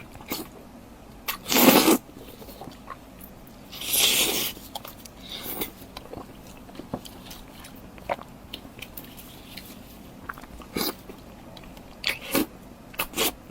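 A person eating close to the microphone: two loud bites or crunches, the first about two seconds in and the second near four seconds, and between and after them a scatter of short clicking mouth sounds of chewing.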